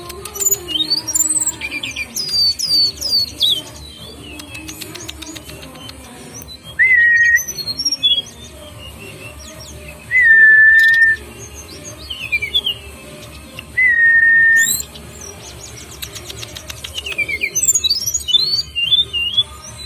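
Songbird chirping with quick, high, sweeping notes. Three loud, steady whistled notes of under a second each come in between. This is a lure recording played to get a caged bird to sing.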